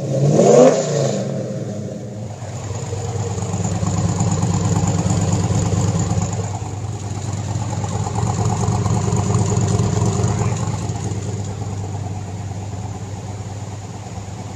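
A car engine revs up briefly near the start, then runs steadily with a low note whose loudness swells and eases over several seconds.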